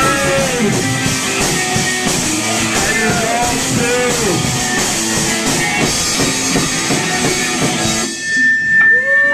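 Live punk rock band playing an instrumental passage on electric guitar, bass and drum kit, which stops abruptly about eight seconds in, leaving a single steady high tone ringing on.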